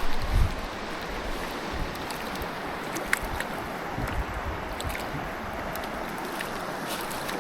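Mountain stream water rushing steadily over rocks, with a few low thumps near the start and about four seconds in.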